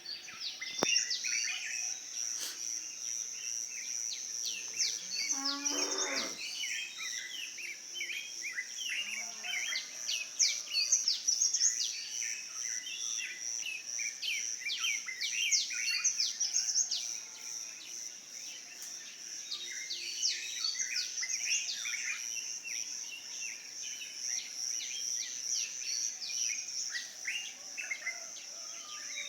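Morning chorus of many small birds chirping and twittering over a steady, high-pitched insect drone. One lower call falls in pitch about five seconds in.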